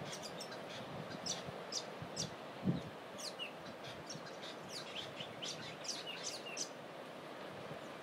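Small birds chirping in a quick run of short, high, falling notes that stop about three-quarters of the way through, over a steady wash of surf. One soft low thump a little past a quarter of the way in.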